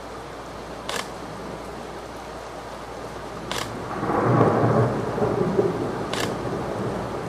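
Thunder from a close lightning strike rolls in about four seconds in, rising quickly into a loud low rumble that carries on for several seconds over steady rain. A short sharp click repeats about every two and a half seconds.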